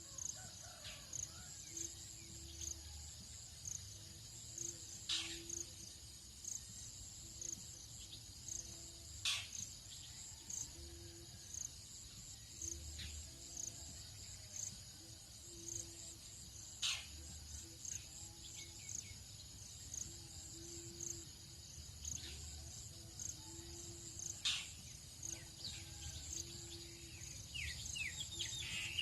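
Tropical dawn insect chorus: a steady high-pitched cricket buzz with pulsing chirps over it, and a low note repeating about once a second underneath. A few sharp bird calls stand out, and a bird twitters near the end.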